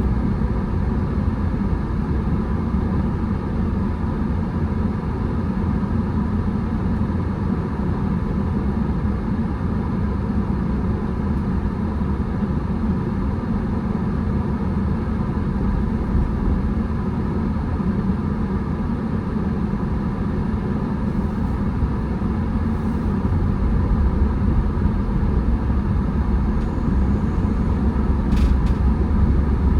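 Car on the move: a steady low rumble of engine and road noise that holds even throughout, with a short click near the end.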